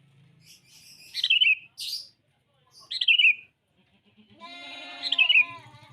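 Sooty-headed bulbul (kutilang) kept as a decoy bird, calling three short chirpy phrases that fall in pitch, about two seconds apart. A longer, lower call from another animal sets in near the end, under the last phrase.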